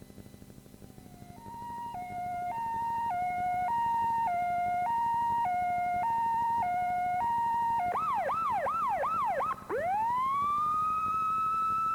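Emergency-vehicle siren sound effect: a two-tone hi-lo alternating between two pitches about every half second, then a quick run of about five rising yelps, then a long rising wail that levels off high.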